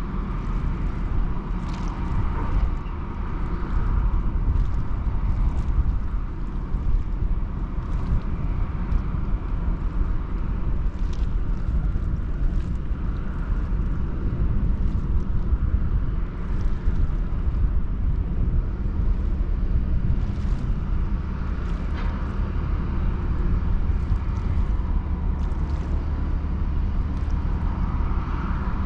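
Steady low rumble of a large ro-ro passenger ferry under way, with wind noise over it.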